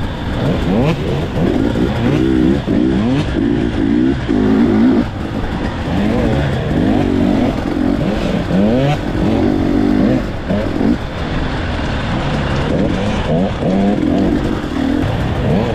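Enduro motorcycle engine being ridden hard, revving up and falling back over and over as the rider accelerates and shifts or backs off.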